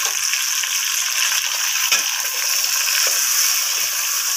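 Mutton and freshly added chopped tomatoes frying in hot oil in an aluminium pot, a steady sizzle, with a wooden spoon knocking against the pot a few times as it stirs.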